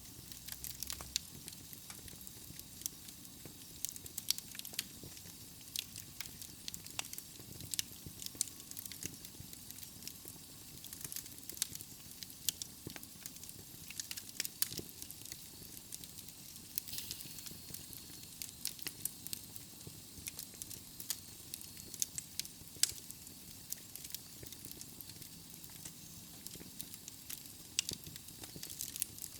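Wood fire burning in a fireplace: logs crackling and popping irregularly over a steady soft hiss.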